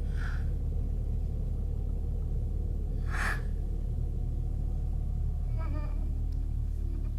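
A steady low rumble throughout, with two short breathy hisses about a third of a second in and about three seconds in, and a faint wavering pitched sound near the end.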